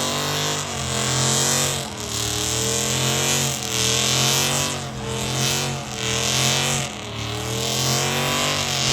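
Car engine revved hard over and over, its pitch dipping and climbing again about once a second, under a strong steady hiss.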